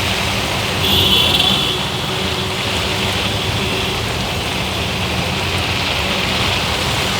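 Heavy rain falling steadily, mixed with vehicle engines running on a waterlogged road. A brief higher-pitched tone rises over it about a second in.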